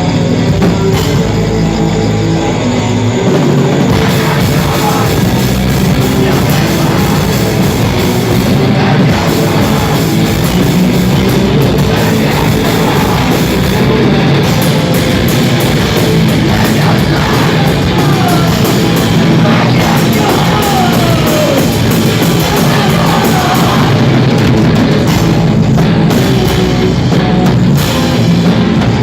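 Loud rock music with a drum kit playing a steady beat throughout.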